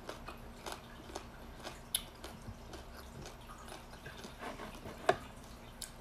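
A person eating with her hands: soft wet chewing and mouth sounds with scattered small clicks and taps, the sharpest about five seconds in.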